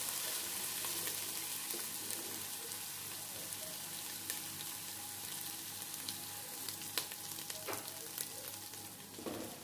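Sliced onions and ginger-garlic paste sizzling in hot oil in a pot, stirred with a wooden spoon, the sizzle slowly fading, with a few sharp clicks. The paste is being fried to cook off its raw smell.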